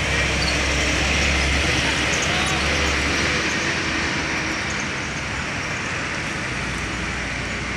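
Roadside traffic noise with a heavy truck's engine rumbling low; the rumble fades about four to five seconds in, leaving the steady hiss of the road.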